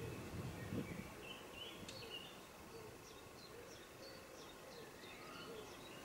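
Small garden birds calling: a string of short, high, thin chirps, about three a second, with a brief low rumble in the first second.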